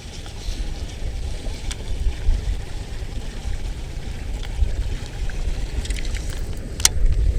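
Strong wind buffeting the microphone, an uneven gusting rumble, with a few faint clicks scattered through it.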